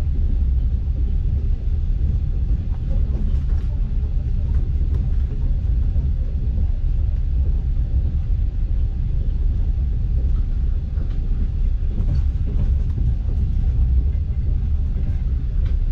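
Passenger train coach running along the track, heard from inside the carriage as a steady low rumble, with a few faint clicks.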